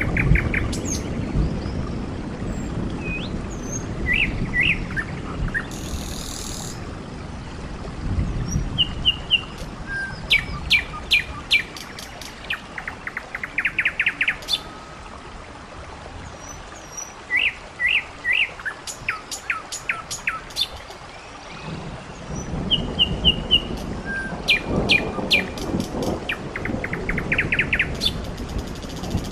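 Small birds chirping and trilling, with short runs of quick high notes repeated throughout, over a low outdoor rumble.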